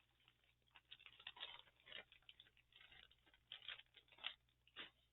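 Faint, intermittent rustling and light taps of paper and card being sorted and leafed through by hand.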